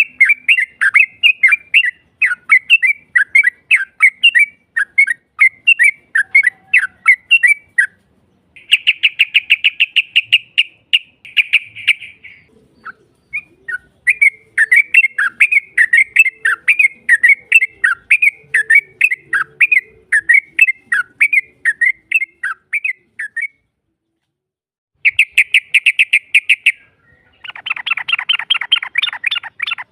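Yellow-vented bulbul (trucukan) lure calls: a quick run of chirping notes, broken by fast rolling trills about nine seconds in and again near the end, then a harsh buzzy rattle at the very end. It is a recording of a female calling, played to provoke rival males into answering.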